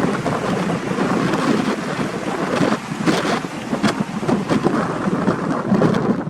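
Strong wind buffeting the microphone, in loud, uneven gusts.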